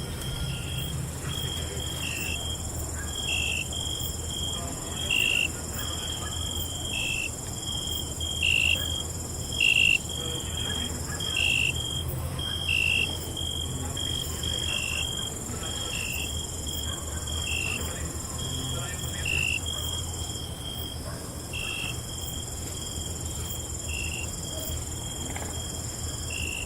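Crickets chirping at night: a steady high trill with a train of short, evenly repeated chirps about one every half second, a few louder than the rest, over a low steady rumble.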